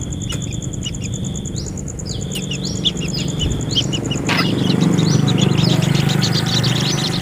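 Birds chirping: repeated high calls and short stepped tones, with an insect's fast, even ticking in the background. About four seconds in, the ticking stops and a rapid run of many chirps takes over.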